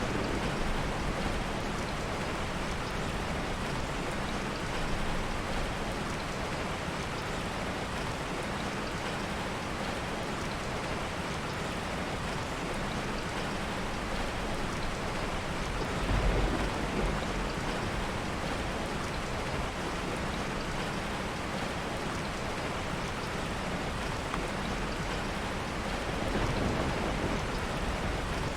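Heavy rain falling steadily, with low rumbles of soft thunder swelling about halfway through and again near the end.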